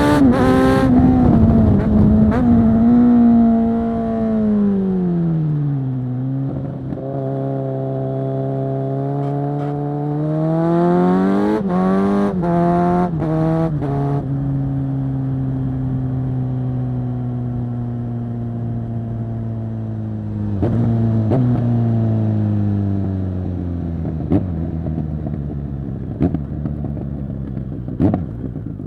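Kawasaki Z900 SE inline-four through a Zard full-system exhaust, heard onboard while riding: revs fall steadily over the first few seconds as the throttle closes, climb again about ten seconds in, then drop sharply at about fourteen seconds. The engine then runs at lower, slowly falling revs, with a few short sharp cracks in the second half.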